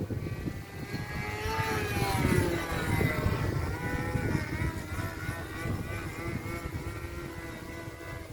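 OS .46 two-stroke glow engine of an RC model airplane running. Its pitch rises about a second and a half in, falls back, and then holds steady.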